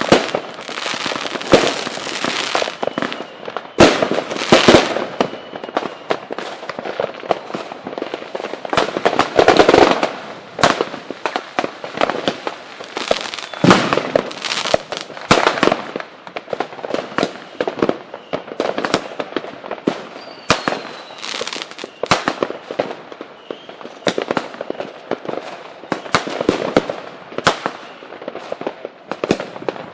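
Fireworks display going off: a rapid, continuous barrage of bangs, pops and crackles, with a few louder booms in among them.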